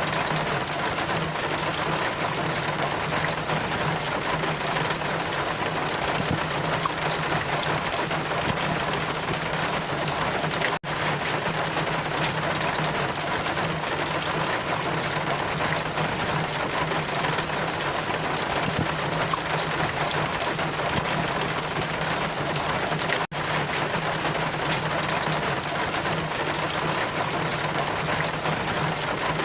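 Steady rain, an even constant hiss with a low steady hum beneath it. The sound cuts out for an instant twice, about twelve seconds apart.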